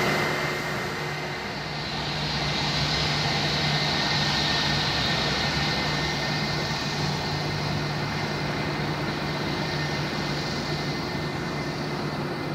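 Jet airliner's engines heard on its landing approach: a steady rushing jet noise whose hiss swells about two seconds in and eases off near the end.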